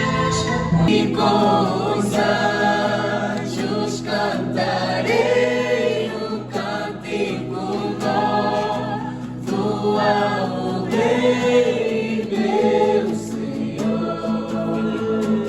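Gospel choir singing in harmony over steady held low notes from an accompaniment.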